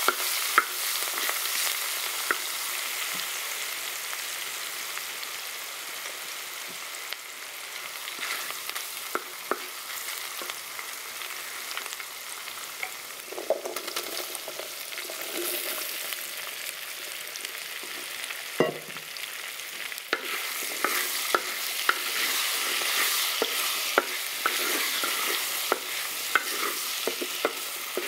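Oil sizzling with curry leaves and green chillies in a heavy black pot, with a wooden spatula scraping and clicking against the pot as it stirs. About halfway through, cubed raw potatoes are tipped in from a steel bowl. After a single knock a little later, the sizzling and stirring get louder as the potatoes are turned in the oil.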